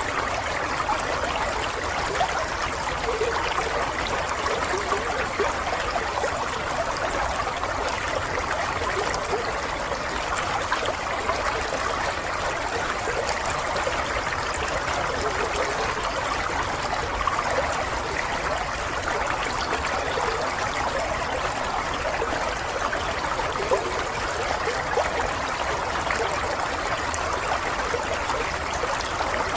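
Running water of a small stream, a steady, continuous babbling trickle.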